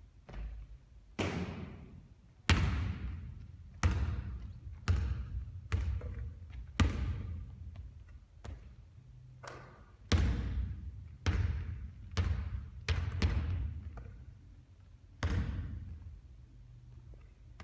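A basketball bouncing and striking hard surfaces about a dozen times at irregular intervals, each hit trailing off in a ringing echo.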